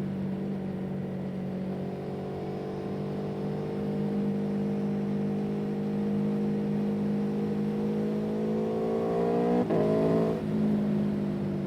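An engine running steadily with an even hum; its pitch climbs slowly toward the end, broken briefly about ten seconds in.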